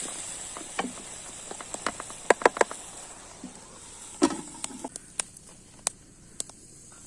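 Irregular sharp clicks and knocks, with one louder knock about four seconds in.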